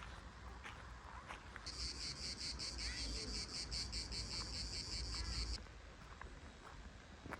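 A cicada singing in a rapid pulsing chirr, about five or six pulses a second, starting about a second and a half in and stopping abruptly near the two-thirds mark.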